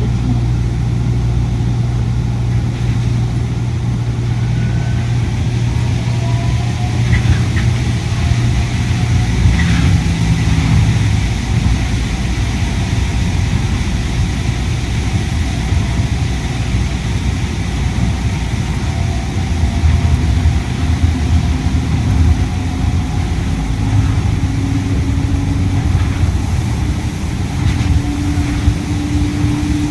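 Inside a Yui Rail monorail car: a steady running hum mixed with loud air-conditioning noise. In the second half a tone rises in steps, as with the train's drive gaining speed.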